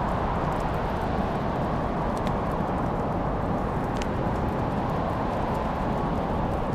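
Wood fire burning in a fireplace: a steady low rumble of flames with a few sharp crackles and pops, the clearest about two and four seconds in.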